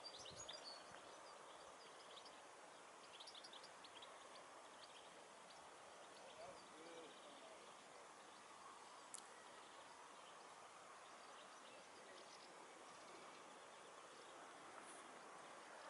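Near silence: faint outdoor hush with a few faint, short bird chirps, mostly near the start and about three to four seconds in.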